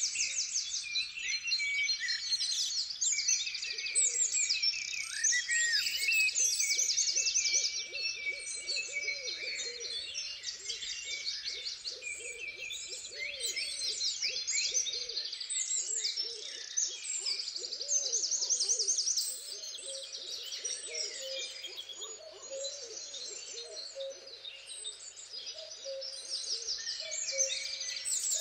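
A dense chorus of songbirds, many overlapping high chirps and trills, with low wavering hooting calls mixed in for much of the time.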